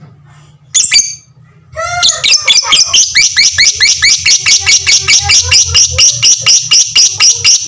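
Lovebird in a long 'ngekek' chatter: after a single sharp call about a second in, a rapid unbroken run of sharp, high repeated notes, about five or six a second, starts near two seconds in and keeps going.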